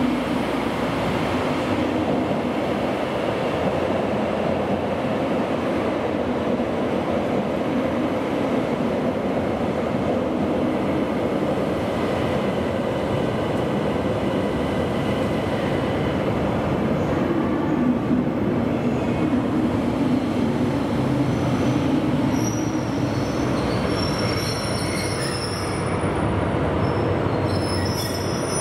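JR Hokkaido train running at a station, a steady rumble of wheels and running gear, with high-pitched wheel squeal coming in over the last several seconds.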